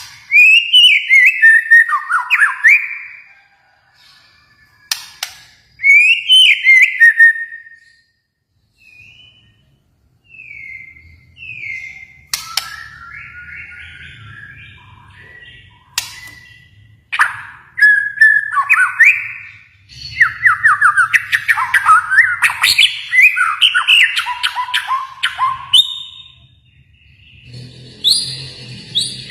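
Kalimantan murai batu (white-rumped shama) singing: loud, varied whistled phrases with sharp clicks. The song comes in short bursts separated by pauses, then becomes a long almost unbroken run through the last third.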